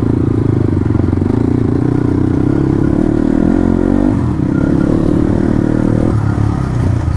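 Dirt bike engine running under way, its note dipping and then picking up again about halfway through and easing off near the end.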